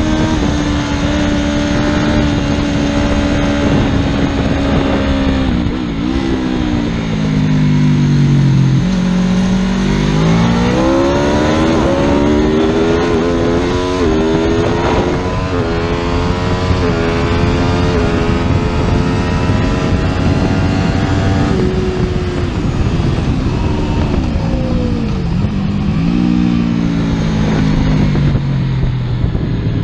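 Superbike engine running hard. It holds a steady pitch, drops off, then climbs through a run of quick gear changes, each one a short rise cut by a small dip. It then slows with the pitch falling, and starts to rise again at the end.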